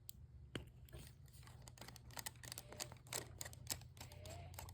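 Faint scattered clicks and light scraping of a thin flathead screwdriver working in a small-engine carburetor's centre jet hole to unscrew the main jet, over a low steady hum.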